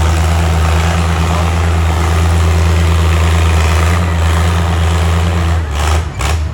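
Antique farm tractor engine running steadily with a deep, heavy drone. Near the end the engine note drops and two brief bursts of hiss follow.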